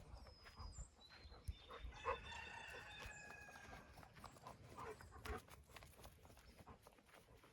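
Faint farmyard sounds: a chicken gives a single high, drawn-out call lasting about a second, roughly two seconds in, among light scattered clicks and knocks.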